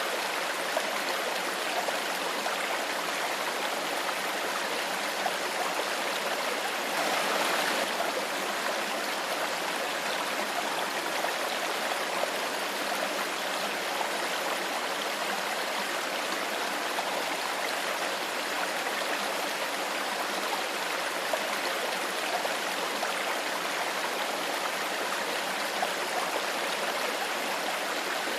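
Stream water flowing steadily over stones, an even babbling with a brief slightly louder swell about seven seconds in.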